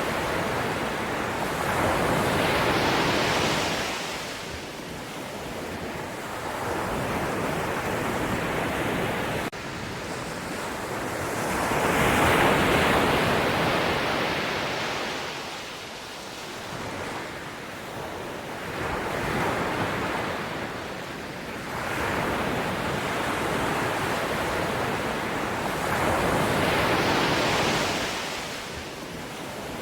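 Ocean surf: waves breaking and washing in, the sound swelling and ebbing in long surges every few seconds.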